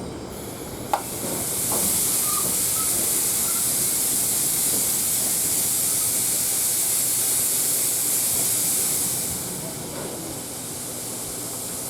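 A long hiss of steam escaping from the C57 steam locomotive, swelling up about a second and a half in, holding steady, and dying down near the end. A sharp click comes just before the hiss starts.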